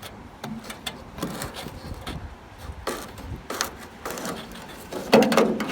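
Scattered light clicks, knocks and scrapes of hands working on small parts, with a louder burst of scraping near the end.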